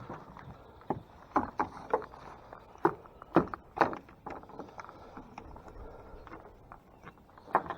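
Irregular knocks and splashy clicks from a small fishing boat on the water, coming in a busy cluster during the first half and once more near the end.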